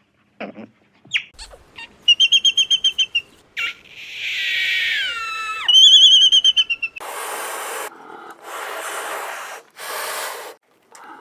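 Animal calls: short chirps, a fast trill, and falling whistled notes, then from about seven seconds in, three long, noisy rasping calls.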